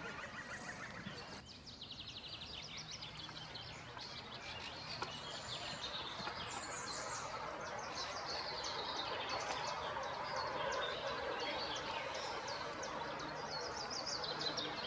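Wild birds singing and calling in a dense spring chorus of rapid chirps and trills, over a steady outdoor rush.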